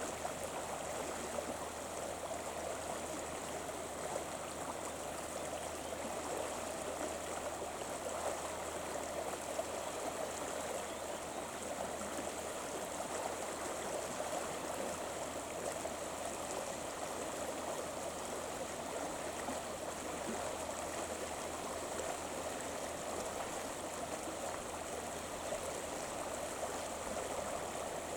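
River water running with a steady rushing flow, unbroken throughout.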